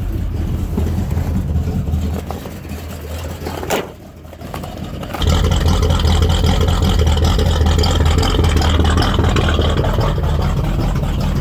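1974 Chevrolet K10 pickup's engine cold-starting: it turns over unevenly for a few seconds and sags, then catches about five seconds in and settles into a loud, steady cold idle.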